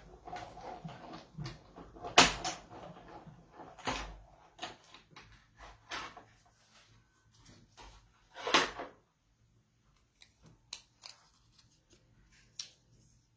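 Clicks and clunks of a manual die-cutting (cut and emboss) machine and its plastic cutting plates being handled and run through. The louder knocks come about two seconds in, four seconds in and at eight and a half seconds, then it thins to scattered faint ticks.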